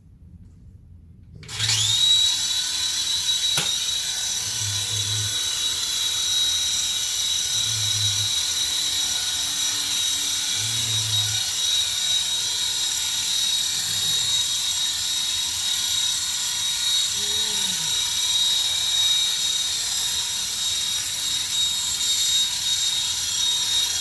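Small electric motor and rotor blades of a toy infrared hover helicopter spinning up about a second and a half in, then running with a steady high whine.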